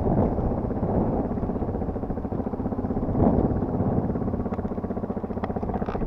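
Yamaha TT250R's single-cylinder four-stroke engine running at fairly steady revs, with a brief rise in engine noise about three seconds in and a few light clicks near the end.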